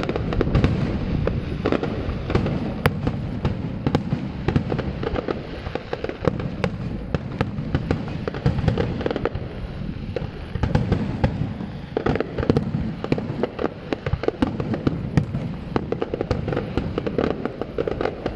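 Fireworks display: a dense, continuous barrage of shell bursts, with sharp cracks coming several times a second over a steady low rumble.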